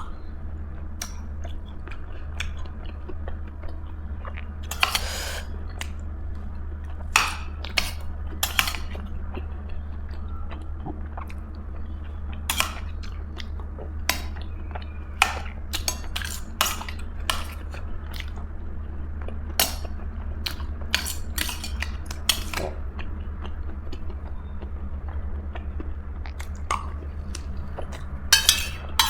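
Close-up eating sounds: chewing, with cutlery clicking and clinking against a plate at irregular moments. A steady low hum runs underneath.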